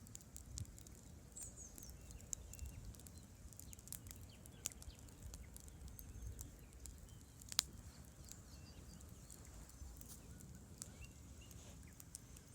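Campfire crackling, with irregular sharp pops and snaps, the loudest a little past halfway, over a low steady rumble of river water.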